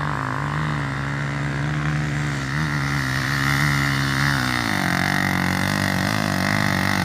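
Trail motorcycle engine running at high revs, its pitch dropping a little about four and a half seconds in and then holding steady.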